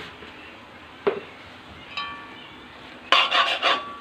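Metal spoon stirring and scraping masala in a pan while it roasts with ground spices: a single knock about a second in, a ringing clink of spoon on pan about two seconds in, then quick scraping strokes near the end.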